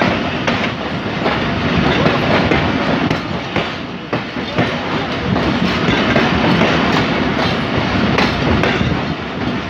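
Running noise of a moving Pakistan Railways passenger train, heard from outside an open coach window. Wheels rumble steadily on the track, with scattered clicks at uneven intervals over the rail joints.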